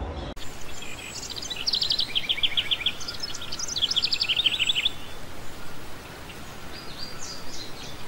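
A bird singing in quick trills of repeated high chirps, in two runs about two and four seconds in, with fainter chirps near the end, over a steady background hiss.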